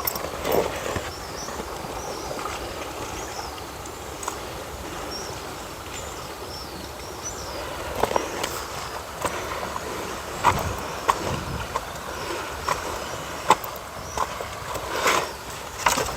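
Steady low rumble, like wind on the microphone, with scattered knocks and clatters that come more often from about eight seconds in, and faint high chirps in the first half.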